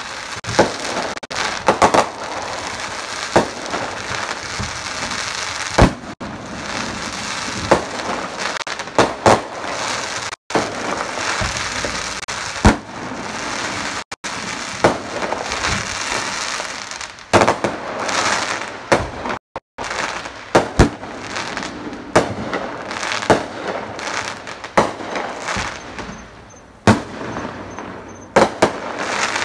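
Consumer fireworks going off: a steady crackling with frequent sharp bangs at irregular intervals.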